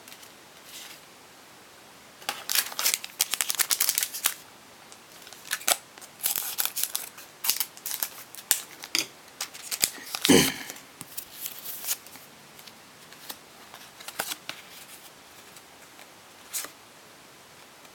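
Pokémon booster pack being opened and its cards handled: bursts of crinkling, snipping and card-flicking rustles, with one louder, fuller sound about ten seconds in.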